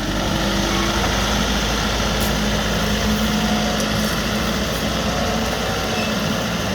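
Tractor engine running at a steady pitch, with a brief rise in pitch in the first second.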